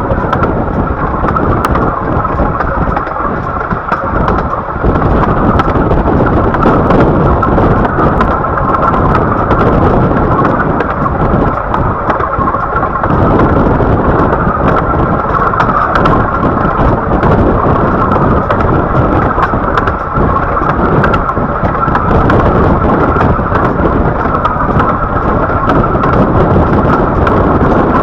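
15-inch gauge railway train running along the line, a steady loud rumble of the moving carriage and rails with wind noise, and faint scattered clicks.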